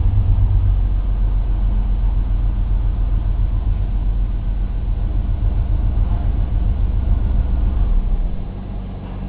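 Steady low mechanical hum that drops noticeably in level about eight seconds in.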